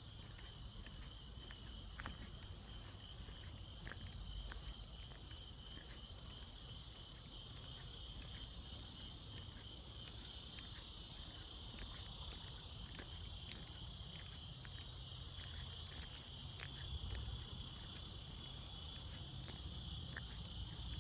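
Insects buzzing in a steady, high, even chorus, with scattered faint clicks and a low rumble underneath.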